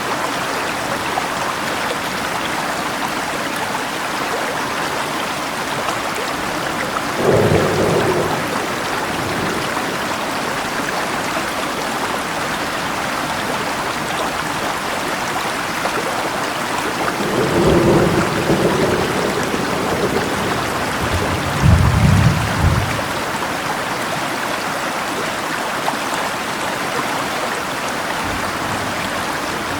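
Steady rain over running river water, with three low rolls of thunder: one about seven seconds in, a longer one a little past the midpoint, and the loudest a few seconds after that.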